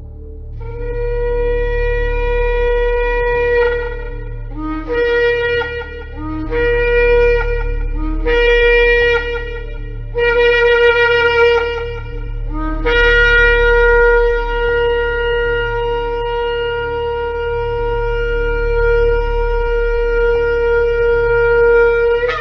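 Shofar (ram's-horn trumpet) blasts: one held note, then four shorter blasts that each break upward into the note, then a very long sustained blast that rises sharply just before it ends. A steady low hum runs underneath.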